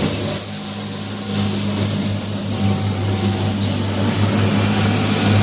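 Train passing close by with a loud, steady low engine drone. A short mid-pitched tone sounds a few times, each for about a second.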